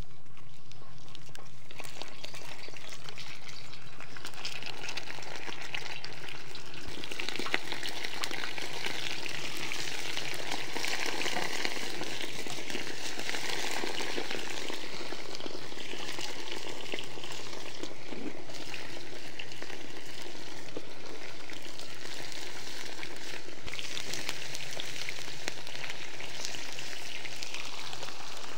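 Food sizzling steadily in hot fat: a dense, crackling frying hiss that grows fuller a few seconds in and holds.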